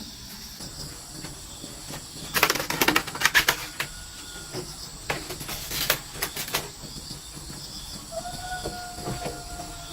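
A steady high-pitched drone of insects, with two bursts of crackling and rustling, the first about two and a half seconds in and the second about six seconds in. A faint held tone comes near the end.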